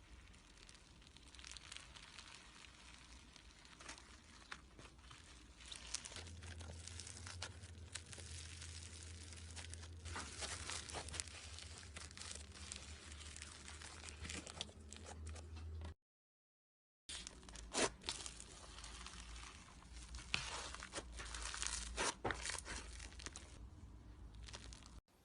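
Slime being squeezed and stretched by hand, giving a dense run of crackling and popping. The sound breaks off for about a second two-thirds of the way through, then resumes.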